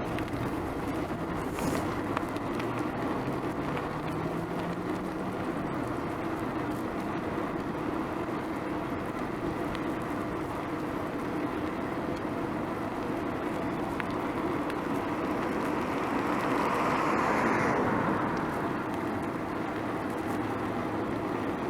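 Steady road noise heard from a moving bicycle on a city street, with motor traffic around it. An engine rises in pitch a few seconds in, and a vehicle passes close, swelling and fading, about 16 to 18 seconds in.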